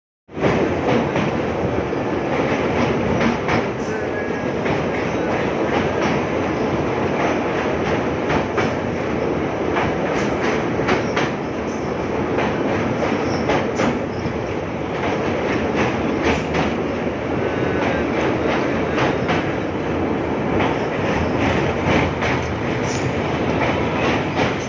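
Moving train running steadily, with a continuous rumble and irregular sharp clacks of wheels over rail joints.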